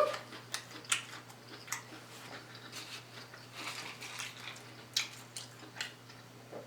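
Close-miked eating sounds: soft chewing with scattered small clicks and smacks of the mouth, over a steady low electrical hum.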